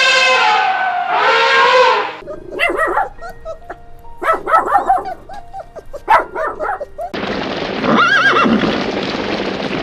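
Horse whinnying, several quavering neighs between about two and seven seconds in. Before them, the tail of another animal's pitched call fades; after them, a noisy stretch carries one short call.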